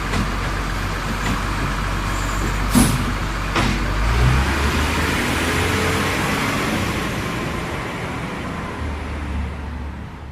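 Garbage truck's engine running steadily, with two short sharp hisses about three seconds in, like air-brake releases. The sound eases off near the end.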